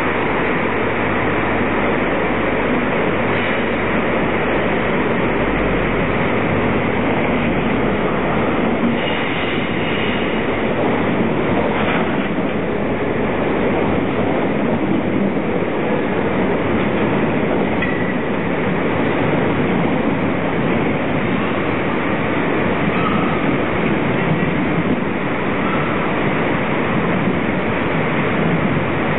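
Passenger train moving through the station: a steady, loud rumble of wheels on rail with a deep low drone that is strongest over the first several seconds.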